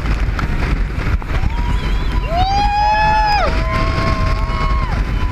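Speedboat passengers whooping and screaming in long held cries, several voices overlapping through the middle, over the steady rumble of the boat's engine, water and wind on the microphone.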